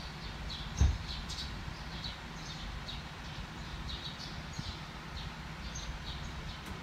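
Small birds chirping: short high chirps, about two a second, with one low thump about a second in.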